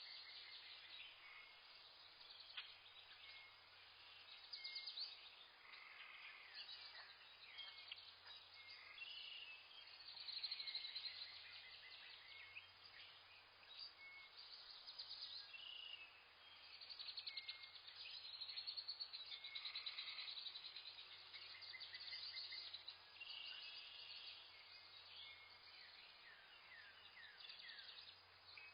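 Faint chorus of many small birds chirping and trilling over one another, rapid high calls overlapping without a break.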